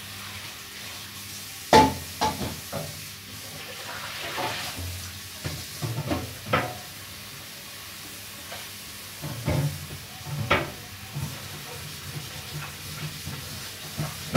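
Food sizzling in a pan on the stove, with scattered knocks and scrapes of a utensil stirring against the pan; the sharpest knock comes about two seconds in.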